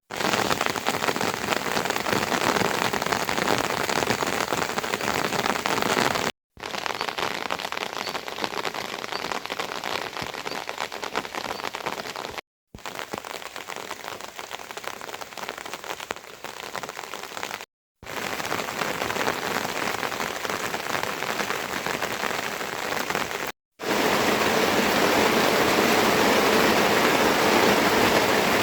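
Steady rain falling, a dense even hiss of drops, in several takes split by four brief silent breaks; the last take, near the end, is louder.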